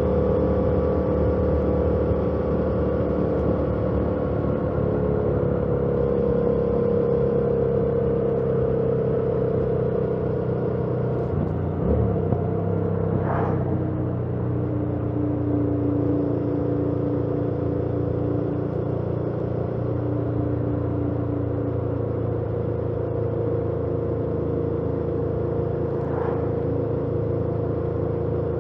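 A 2018 Yamaha MT-07's 689 cc parallel-twin engine, stock exhaust, running steadily while the bike is ridden, heard from the rider's helmet. The engine pitch eases down slightly over the first ten seconds and shifts about twelve seconds in.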